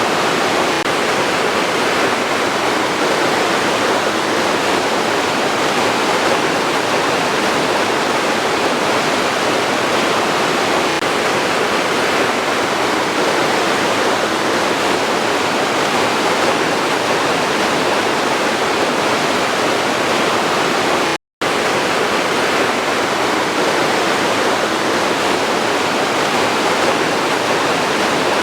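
Waterfall rushing: a loud, steady wash of falling water, cut off for a split second about three-quarters of the way through.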